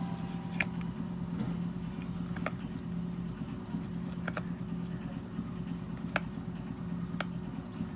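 A steady low hum with about five sharp, light clicks spread through it.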